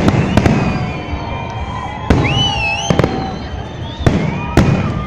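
Fireworks display: about six sharp bangs of bursting shells, in quick pairs, over a continuous rumble.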